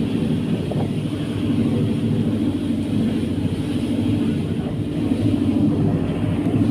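Fast passenger ferry's engines running with a steady, even drone.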